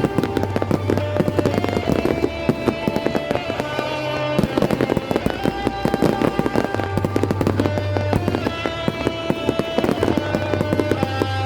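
Fireworks display: a dense, rapid string of bangs and crackles from bursting shells, over music with held notes and a low bass line.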